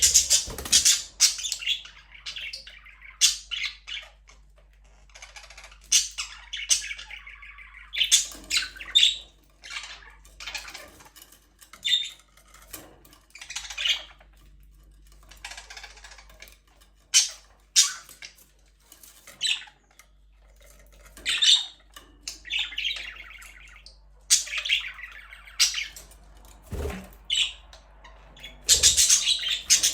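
A flock of budgerigars chattering and squawking in an aviary: many short, irregular chirps and harsh squawks, overlapping in quick bursts.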